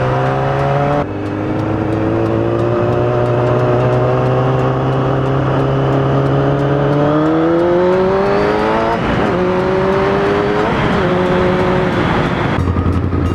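Kawasaki ZX-9R sport motorcycle engine under way: the note drops at a gear change about a second in, holds steady, climbs as the bike accelerates, then dips in steps twice near the end as it shifts or rolls off. Wind rush is heard throughout.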